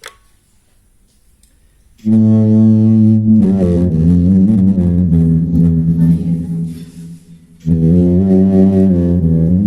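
Low, reedy clarinet-style tone from a Zoom G3n multi-effects pedal patch: quiet for about two seconds, then a held low note that moves into a melodic phrase, with a short pause near the end before the line resumes.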